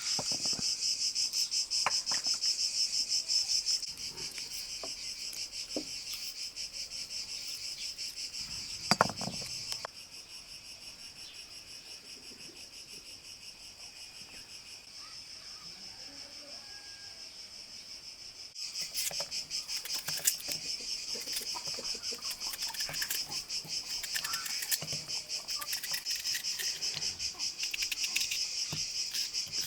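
Crickets chirping in a dense, steady pulsing chorus, fainter for several seconds in the middle, with a single thump about nine seconds in and a few light knocks.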